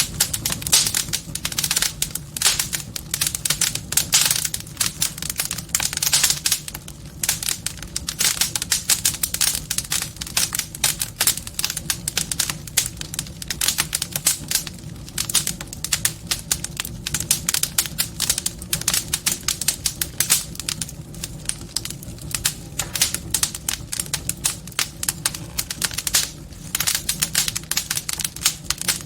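Wood fire burning in a fireplace, crackling with dense, irregular pops and snaps over a steady low rumble of the flames.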